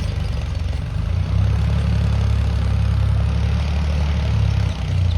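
Mahindra tractor's diesel engine running steadily, with a brief dip in level near the end.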